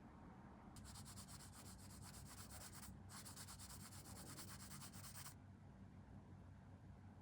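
Hand sanding of a small plastic model part, with quick back-and-forth scratchy strokes. The sanding comes in two runs of about two seconds each, with a brief break between them.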